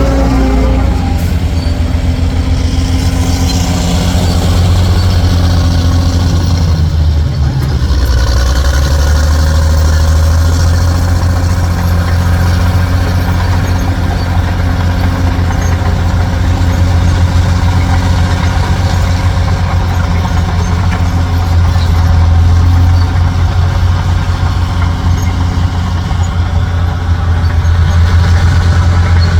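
Heavy dump truck's diesel engine running steadily with a deep, even hum. Its note drops about seven seconds in, then settles.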